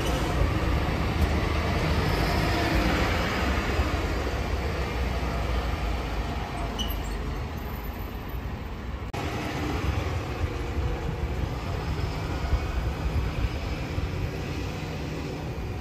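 Transperth electric suburban train running along the track: a steady low rumble with a hiss of wheels and motors, broken by an abrupt cut about nine seconds in.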